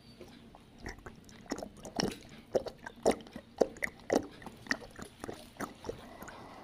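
Close-up chewing and lip-smacking while eating roast chicken, a run of irregular wet smacks about two a second that stop shortly before the end.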